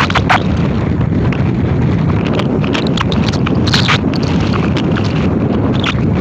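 Strong wind buffeting the microphone, a steady loud rumble, with scattered light clicks and rattles over it.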